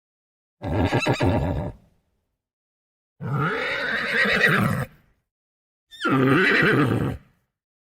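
Horse neighing: three separate whinnies, each about a second long, with silence between them.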